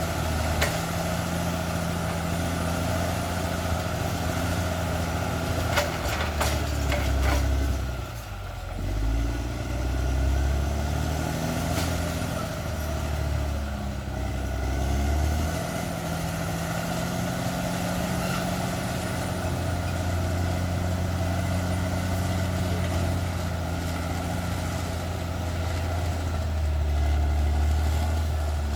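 Caterpillar D6R XL crawler bulldozer's diesel engine running under working load, its pitch dipping and rising several times, with a few sharp metallic clanks in the first half.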